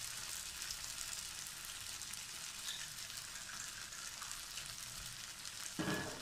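Diced vegetables and chili sauce frying in oil in a steel wok: a steady sizzling hiss with small crackles as oyster sauce goes in. A brief voice sound near the end.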